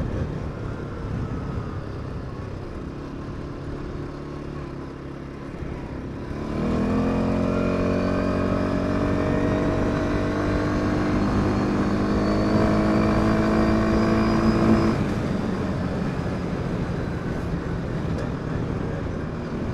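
CFMOTO CFORCE 550 quad's single-cylinder engine running on the move. About six seconds in it opens up, its pitch rising and holding at higher revs, and it drops back when the throttle closes around fifteen seconds in.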